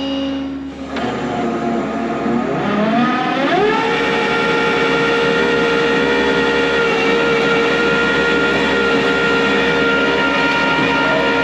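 Tow truck running, its pitch rising over about two seconds and then holding a steady whine.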